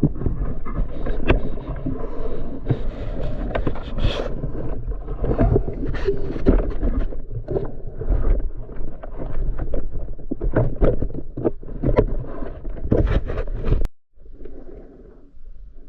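Water sloshing and rumbling against a camera, with many sharp clicks and knocks. It cuts out suddenly near the end and comes back quieter.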